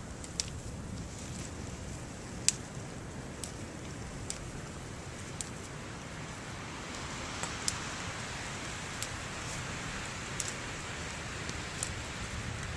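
Steady rush of wind and blowing snow, with sharp high clicks at irregular intervals of about a second; the loudest comes about two and a half seconds in.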